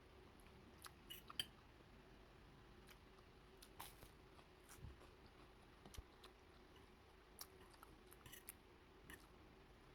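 Near silence with a faint steady hum and scattered small clicks and taps, the loudest about a second and a half in.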